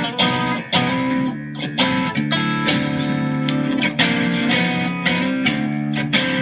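Mexican-made Fender Stratocaster electric guitar played in drop D tuning after a setup, chords and notes struck in quick succession and left ringing.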